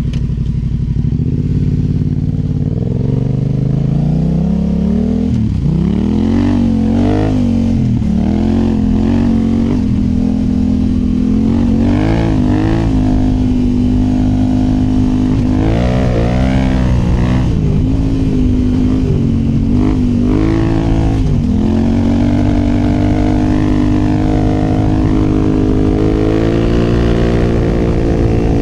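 2019 Yamaha Ténéré 700's parallel-twin engine through a MIVV Dakar high exhaust, heard close to the exhaust while riding. It starts at low revs, climbs about two seconds in, then rises and drops in revs again and again with throttle and gear changes, and settles into a steady pull that slowly climbs near the end.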